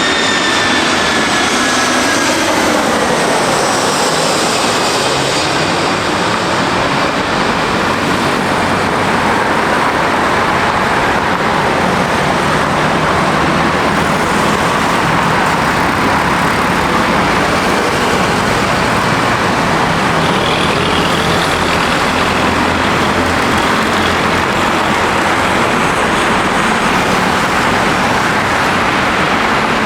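Airbus A320-200 jet airliner landing close by. Its engine whine falls in pitch over the first few seconds as it passes, then gives way to a loud, steady roar that lasts the rest of the time.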